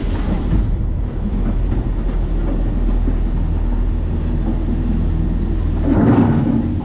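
Side-loading garbage truck running steadily, heard from inside its hopper as a low, even rumble, with a louder noisy burst about six seconds in.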